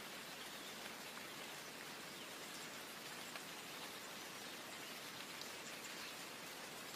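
Soft, steady rain: an even hiss with faint ticks of single drops.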